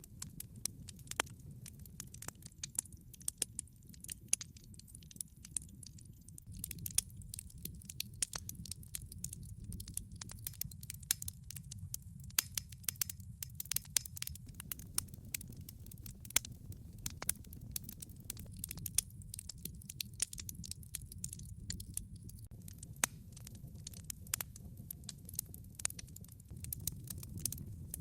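Wood log fire crackling: frequent irregular sharp pops and snaps over a low, steady rumble of burning.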